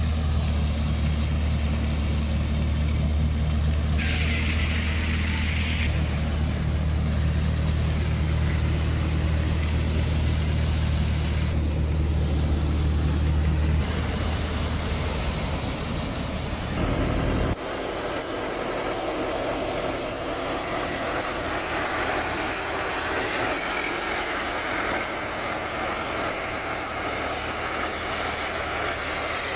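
New Holland tractor's diesel engine running steadily under load while driving a paddy thresher, with a hissing rush over it. About 17 seconds in, the deep engine rumble drops away and a broad, even rushing noise continues.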